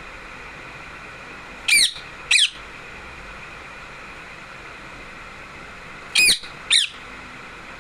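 Pet parrot giving four short, sharp calls in two pairs, the two calls of each pair about half a second apart and the pairs about four seconds apart.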